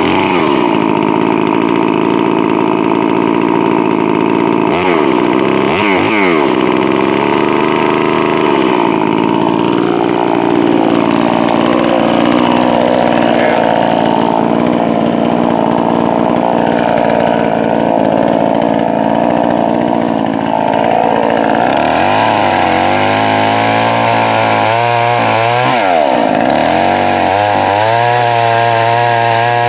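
Poulan Pro 4620 two-stroke chainsaw running and cutting wood, its engine pitch dropping and rising again several times, most often in the last few seconds. The saw has a freshly fitted piston and is set to run rich for break-in.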